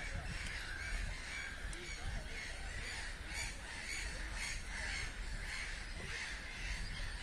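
Birds calling over and over in short calls, thickest about three to five seconds in, over a steady low rumble.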